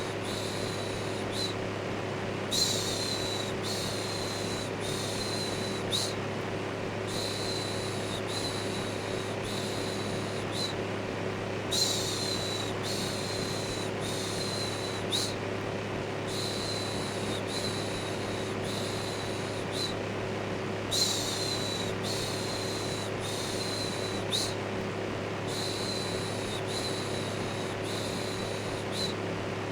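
An electric fan running steadily with a low motor hum, overlaid by a looped "shhh" shushing sound: short hissing strokes about one and a half a second, in runs broken by brief pauses every four or five seconds.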